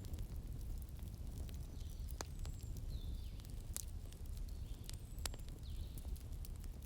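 Wood fire crackling: sharp separate pops every half second or so over a steady low roar of burning, with faint high squeaking glides between the pops.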